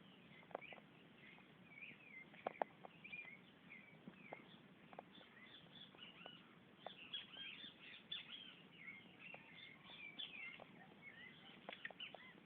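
Faint chirping of several small wild birds: many short calls and quick up-and-down notes, busier in the second half. Scattered sharp clicks or taps, the loudest a pair about two and a half seconds in.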